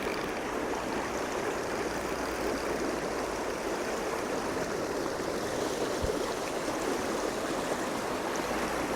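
Small stream running steadily: a constant, even rush of water.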